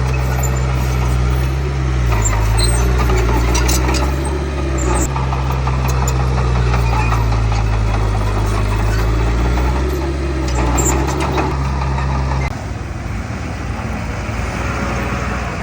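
Heavy diesel engine of earthmoving machinery running steadily, with bursts of metallic clanking twice. About twelve seconds in, the steady engine note breaks off suddenly into a rougher, quieter rumble.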